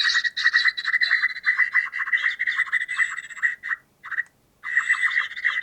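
Playback of a field recording of birds with the low end filtered out: a rapid run of short, repeated chattering calls with songbird calls behind them, breaking off briefly about four seconds in.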